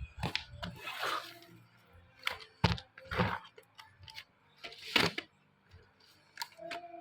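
Colored pencils and a pencil case being handled: a string of sharp clicks and knocks, with a rustle about a second in.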